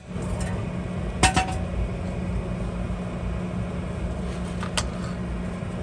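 Two sharp metallic clinks of metal tools or parts being handled, each ringing briefly, about a second in and again near the end, over a steady low hum.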